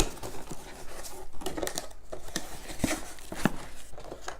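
Cardboard box being opened and its contents handled: irregular rustling, scraping and light knocks.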